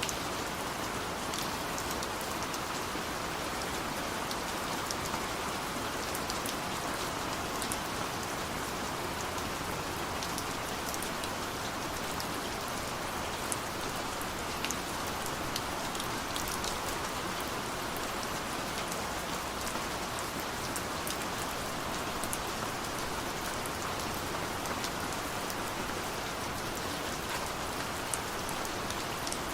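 Steady rain falling, a constant hiss with the sharp ticks of individual drops landing close by.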